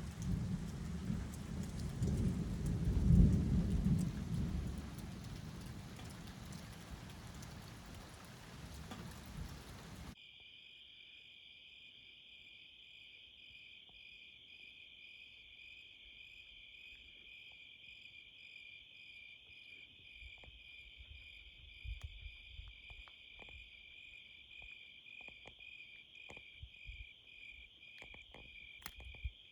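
A low rumble swells about three seconds in over a steady rain-like hiss, then cuts off suddenly about ten seconds in. After that, crickets chirp in a steady, fast-pulsing high trill, with a few faint clicks.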